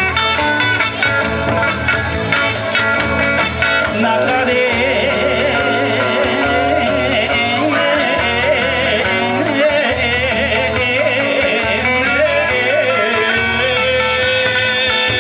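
Live Kawachi ondo music: electric guitar phrases over a steady beat, with a wavering melodic line coming in about four seconds in.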